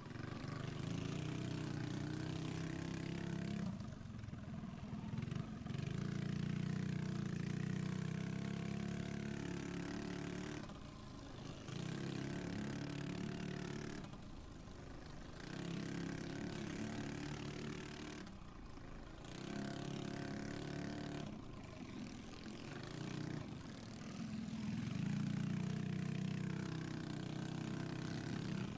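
Fully modified pit bike (minibike) engine running hard through a race, the throttle rolled off briefly about every three to four seconds and then opened up again.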